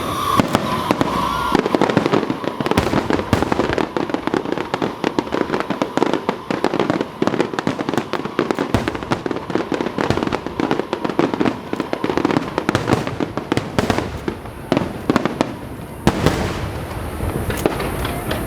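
Aerial fireworks display: a dense, unbroken run of bangs, pops and crackles.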